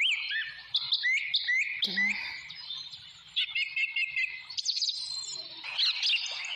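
Birds chirping: a busy run of short, high chirps and whistled notes, several a second and overlapping.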